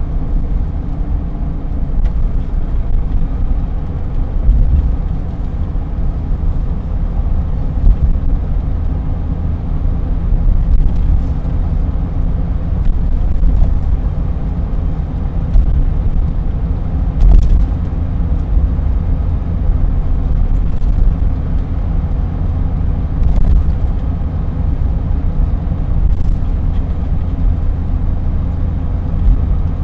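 Chevrolet Silverado 1500 4x4 pickup driving along, a steady low road and drivetrain rumble, with a few faint brief knocks here and there.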